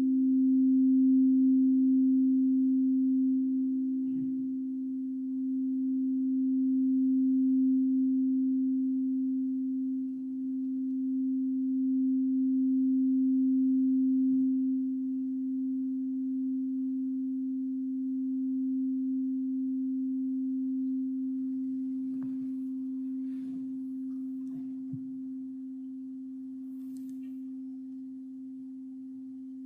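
Singing bowl ringing in one long, low, sustained hum with a second close tone just above it, swelling and easing gently and fading slowly over the last several seconds. A few faint knocks come near the end.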